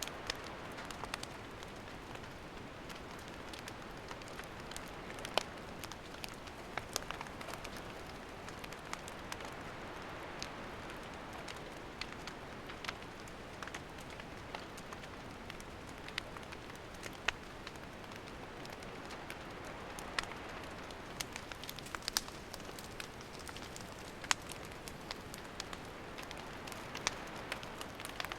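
Wood campfire burning: a steady soft hiss with irregular sharp crackles and pops of the burning wood, a few louder pops every several seconds.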